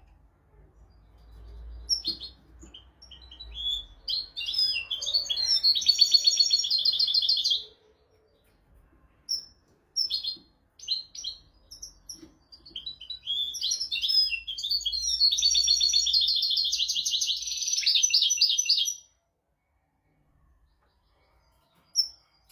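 European goldfinch singing: two long phrases of quick twittering notes running into fast trills, each about five or six seconds long, with a few short calls between them.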